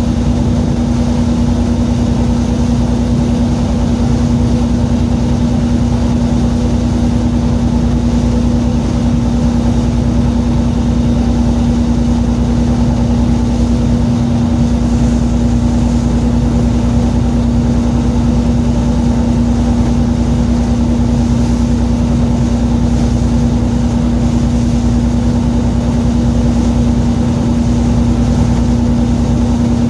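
Fishing boat's engine running at a steady speed, a loud constant hum that does not change.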